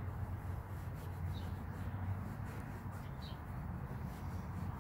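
Outdoor background of a steady low rumble, with two short, high bird chirps, one about a second and a half in and another about three seconds in.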